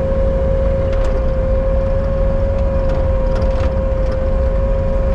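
Bobcat T77 compact track loader's diesel engine running as the machine drives, a steady low drone with a constant high whine over it.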